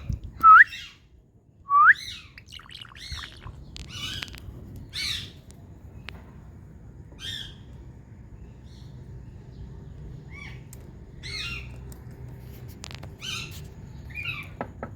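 Indian ringneck parakeet calling. Two loud rising whistles come in the first two seconds, then a scattered series of short squawks and chirps.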